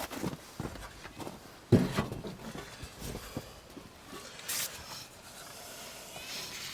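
Scattered light knocks and rustles of handling, with one sharp thump a little under two seconds in and a short hiss-like rustle past the middle; no engine running.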